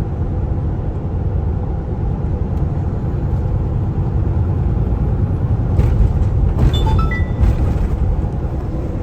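Kenworth T680 semi-truck's engine and road noise heard from inside the cab, a steady low rumble. A few short high-pitched tones come about seven seconds in.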